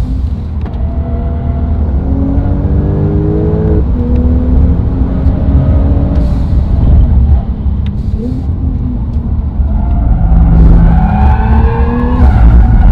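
Brabus 820 (Porsche 911 Turbo S) 3.8-litre twin-turbo flat-six under hard acceleration on track. The engine note climbs, drops sharply at an upshift about four seconds in, then climbs again near the end.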